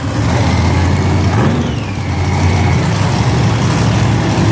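Monster truck engines running loud and steady with a deep rumble, the trucks staged at the start line before a race.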